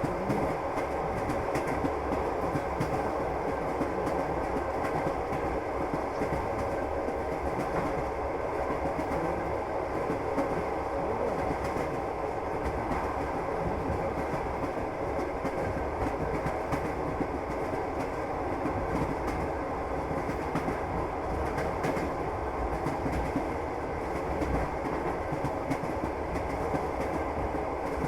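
Passenger train running along the track, heard from inside the carriage: a steady rumble of the wagon with the clickety-clack of the wheels over the rail joints.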